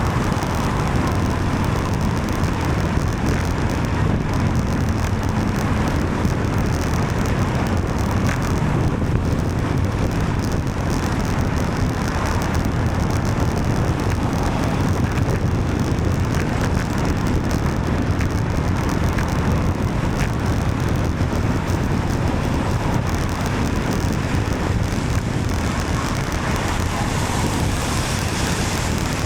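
Steady road noise from traffic on a wet road in the rain, under a constant low rush of wind over the microphone of a moving bicycle.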